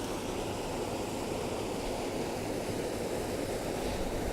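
Small waterfall and stream water rushing in a steady, even flow.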